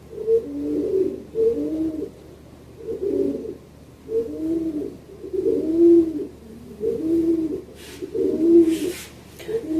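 Domestic pigeon cooing over and over, a low rolling coo roughly every second or so, with a brief rustle near the end.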